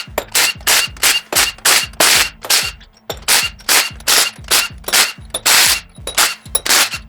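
An impact wrench fired in short repeated bursts, about three a second, breaking loose and spinning off bolts while a small-block Chevy V8 is being torn down.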